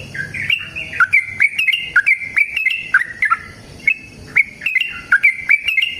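Yellow-vented bulbul (trucukan) singing a long, fast run of short, bubbly chirped notes, about three a second with hardly a break.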